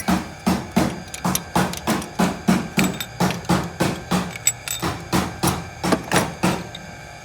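Repeated hand-tool knocks on metal, evenly spaced at about three a second, each with a short ringing.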